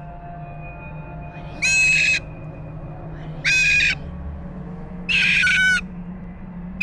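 Pet bird giving loud, shrill screeching calls, three in a row about every second and a half, with a fourth starting near the end; the owners take them for the bird mimicking screaming.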